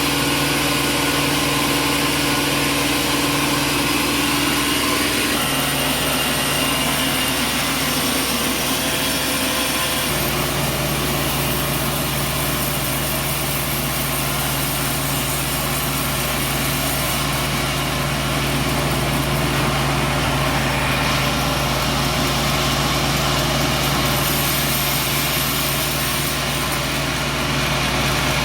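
Engine-driven sawmill machinery running with a steady hum. Its pitch shifts about five seconds in and again about ten seconds in.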